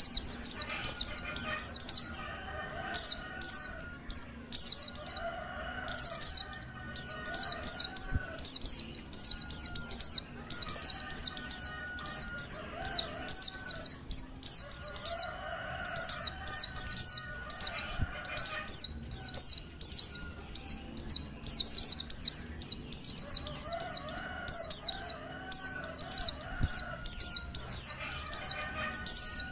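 Female white-eye (pleci) calling: bursts of rapid, thin, high chirps, each note dropping slightly, repeated about once a second with brief pauses. This is the kind of call used to stir male white-eyes into song. Fainter, lower warbling calls sound underneath.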